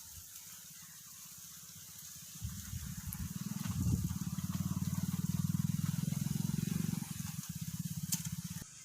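Low engine rumble with a fast, even firing pulse that builds about two and a half seconds in, holds loudest through the middle, and cuts off abruptly near the end.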